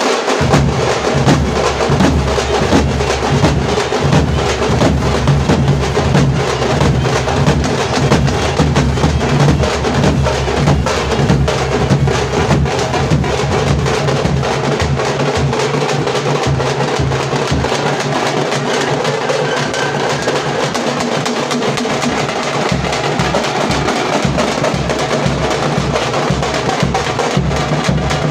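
Tamate, the South Indian frame drum, beaten with sticks in a fast, continuous rhythm of dense strokes.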